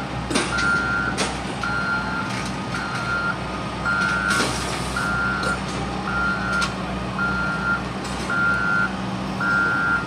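A truck's backup alarm beeping steadily in reverse, about once a second, over the low, steady running of its engine, with a short hiss about four seconds in.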